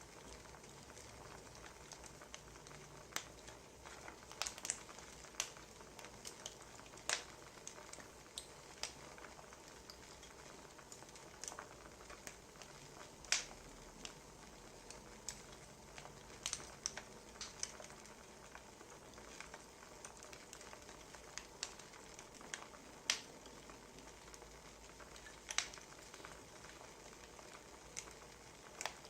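Firewood fire crackling: irregular sharp pops and snaps over a soft steady hiss.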